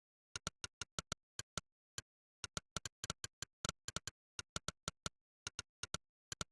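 Monkeytype's "click" keypress sound effect, one sharp click per keystroke at an uneven typing pace of about five a second, with a brief pause a little under two seconds in.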